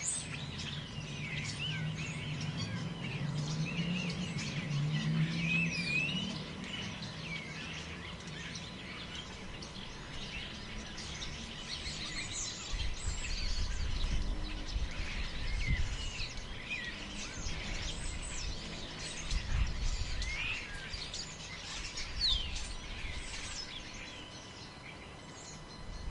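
Forest birds chirping and calling, many short overlapping calls throughout, with low rumbling gusts of wind about halfway through and again about three-quarters in.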